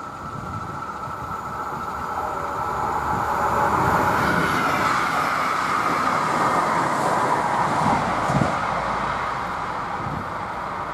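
Electric IC passenger train passing over a level crossing: its wheel and rail noise builds about two seconds in, is loudest through the middle with a couple of knocks as the wheels cross the road, then fades. Under it, the crossing's warning signal keeps sounding a steady tone.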